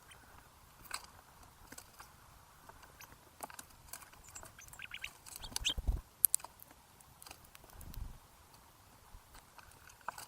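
Small birds feeding at a backyard seed feeder: irregular light pecking taps and clicks, busiest around the middle, with a couple of soft low thumps.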